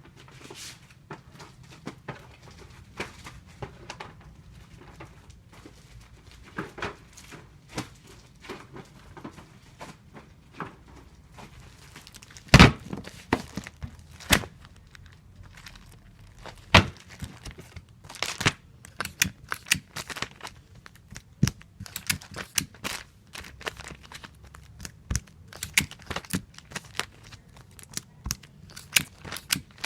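Tape being pulled and torn off a tape dispenser while comic books are taped up: many irregular clicks, knocks and tearing sounds. The loudest is a sharp knock about twelve seconds in, and the clicks come thicker in the second half.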